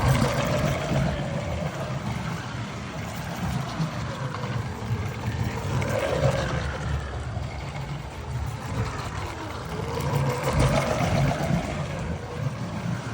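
A tractor slot car's 36D electric motor whining as it laps the track, over a steady rumble of the car running on the track. The whine rises and falls in pitch in waves every few seconds as the car speeds up and slows around the circuit.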